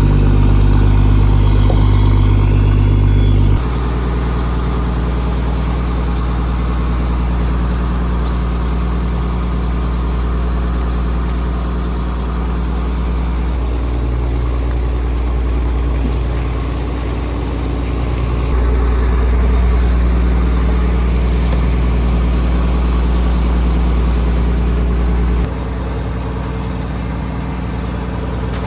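A fishing trawler's engine running with a steady low drone and a faint high whine above it. The drone shifts suddenly in level and pitch a few seconds in, again about two-thirds through, and once more near the end.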